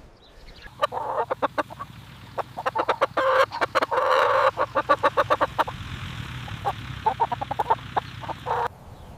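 Chickens clucking in quick runs of short calls, with a longer drawn-out squawk about three to four seconds in; the sound cuts off suddenly near the end.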